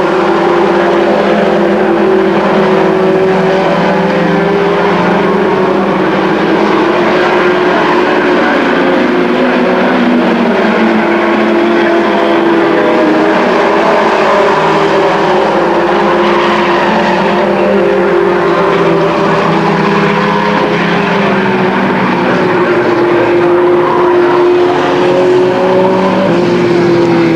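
Several race truck engines running together at racing speed on a short oval track, their pitches rising and falling as the trucks lap, with one dropping in pitch near the end.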